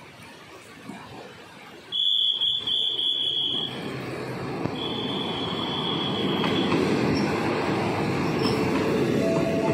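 A passenger train pulls in alongside the platform: the rumble of its wheels and running gear builds as the cars pass close. A high, steady metallic squeal from the train sounds twice, first about two seconds in and again about five seconds in.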